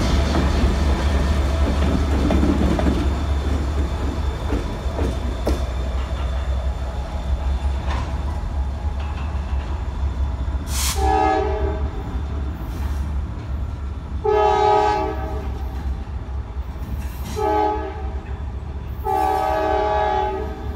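The SD40-2 diesel locomotive rumbles past close by and fades as the train pulls away. It is followed by a multi-note locomotive horn sounding the grade-crossing pattern: two long blasts, a short one and a long one.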